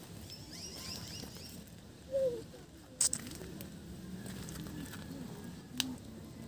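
Birds chirping in short high chirps for the first second and a half, with a short lower call about two seconds in and two sharp clicks, one about three seconds in and one near the end.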